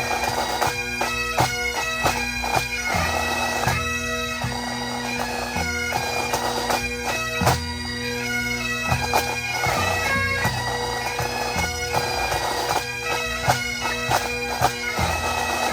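Pipe band playing: Highland bagpipes sounding a march tune on the chanters over steady drones, with drum strokes through it. The music cuts off sharply right at the end as the band finishes.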